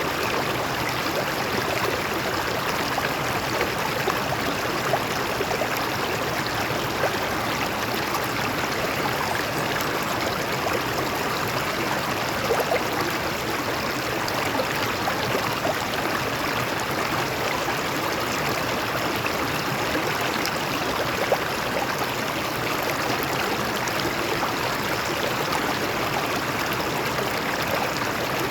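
Stream water flowing over rocks: a steady rush of running water with small splashes and gurgles throughout.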